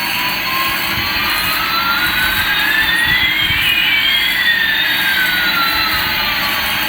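Toy Airbus A380's built-in jet-engine sound effect, played through a small tinny speaker: a steady jet hiss with a whistle rising in pitch and another falling, the two crossing midway.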